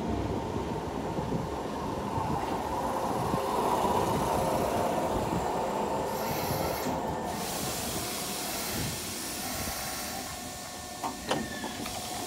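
Keisei 3500-series commuter train running into the platform and slowing to a stop, a steady rumble and whine that fades as it halts. About six seconds in there is a short hiss of air, and near the end a few clunks as the doors slide open.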